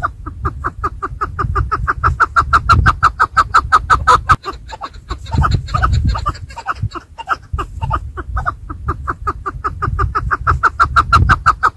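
Chukar partridges calling: a fast, even run of short clucking notes, about seven a second, thinning briefly around the middle, over a low rumble.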